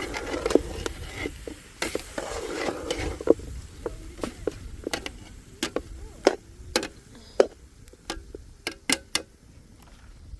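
Irregular sharp clicks and knocks of small hard objects, thicker in the first few seconds and sparser after.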